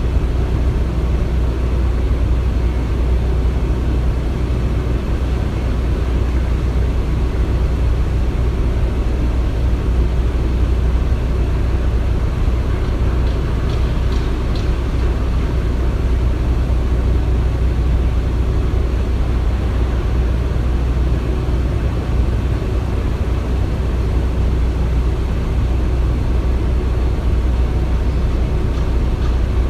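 Construction-site ambience: a steady, low, engine-like rumble of heavy machinery with no distinct knocks or impacts.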